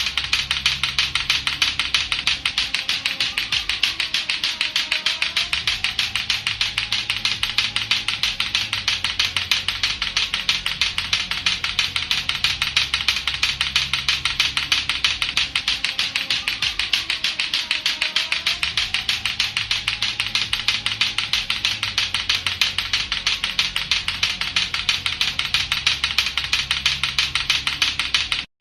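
Lato-lato clackers, two hard plastic balls on a string knocking together in a fast, steady run of sharp clacks. The clacking briefly cuts out near the end.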